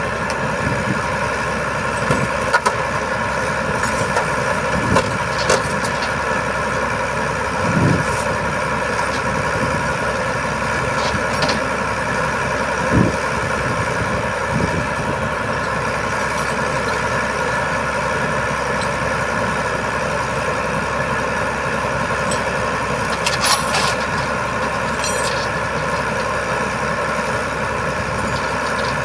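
Heavy truck engine running steadily, with a few short knocks and clanks over it.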